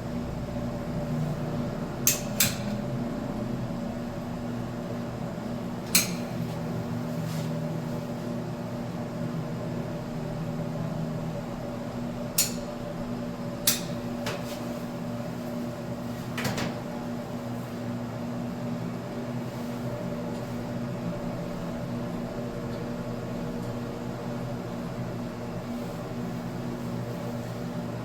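A steady mechanical hum, with a few sharp clicks and knocks of hard objects being handled, most of them in the first half.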